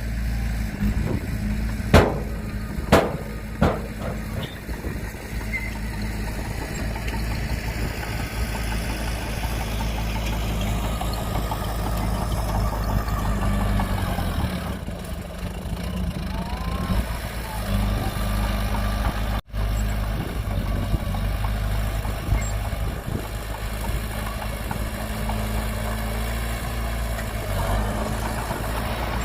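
Heavy diesel engine of earthmoving machinery running steadily at low revs, with three sharp knocks in the first few seconds.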